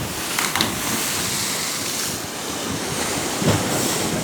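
Rough sea: waves surging and breaking, with wind buffeting the microphone and a couple of short knocks.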